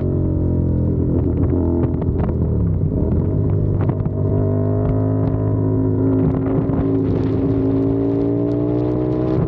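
CFMOTO 450SR's parallel-twin engine running on the move: its pitch drops briefly about two to three seconds in, then rises slowly and steadily as the bike pulls.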